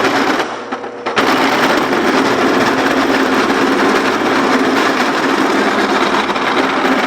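Sears Craftsman drill press running with its bit cutting into steel, a steady motor hum under loud grinding noise. It eases briefly near the start, then bears back in at full level.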